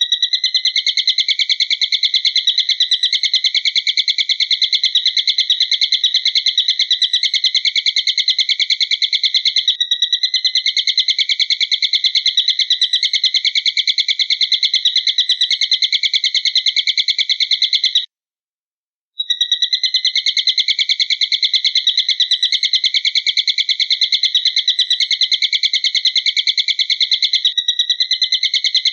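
Recorded bird call played as a training track: a loud, high, rapid trill that runs on without a break. It cuts out abruptly for about a second a little past halfway, then resumes unchanged.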